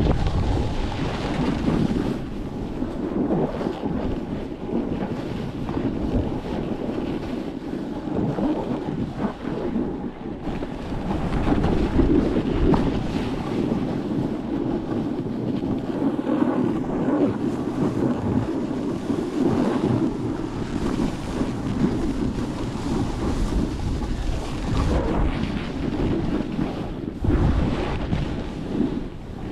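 Strong blizzard wind blasting the microphone in uneven gusts.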